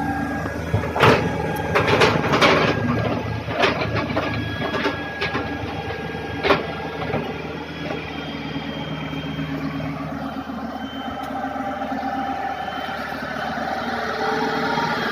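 Hitachi excavator's diesel engine running steadily, with a series of sharp metal knocks and clanks over the first several seconds as the machine works. The engine grows louder near the end.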